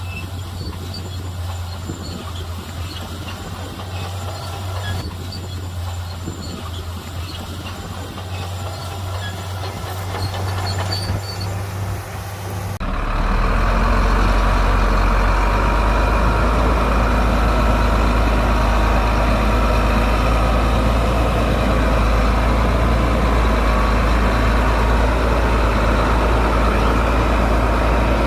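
Shantui bulldozer's diesel engine running steadily. About 13 seconds in, the sound switches suddenly to a much louder, deeper engine noise that stays steady.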